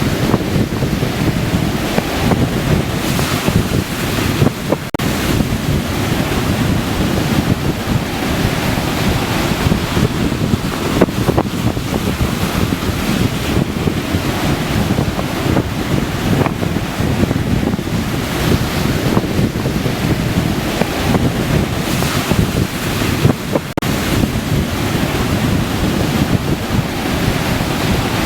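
Sea surf washing onto a beach, with wind buffeting the microphone in a steady low rush.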